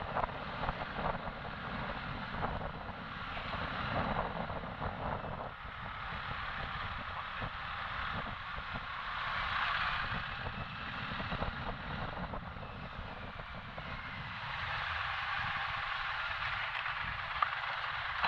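A motorcycle on the move, heard from the rider's camera as a steady rush of wind and road noise that swells and eases with speed.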